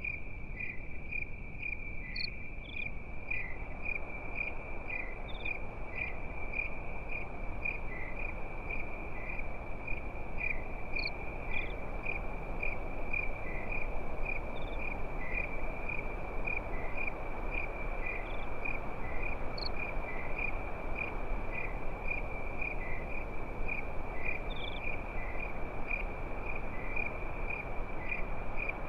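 Crickets chirping at night in a steady high trill that pulses about twice a second, with occasional higher chirps. Beneath it a soft, even hiss from a campfire.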